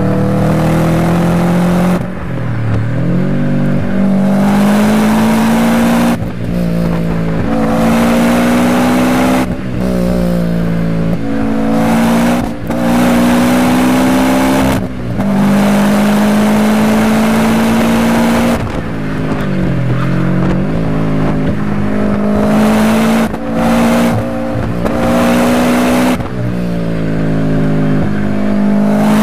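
Car engine heard from inside the cabin, driven hard: it repeatedly accelerates with rising pitch, then drops sharply at each gear change or lift-off, about every three to four seconds.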